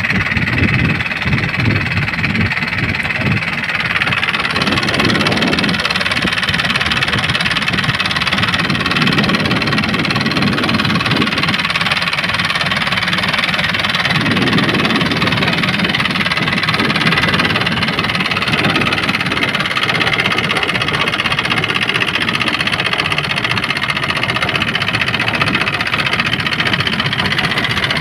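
Fishing boat's engine running steadily and loudly.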